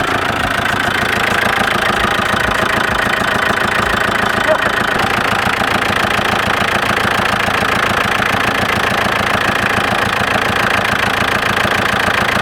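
Audi 80 engine running steadily with a loud mechanical whirr over its idle. The owner puts this strange first-start noise down to a clutch that seems stuck.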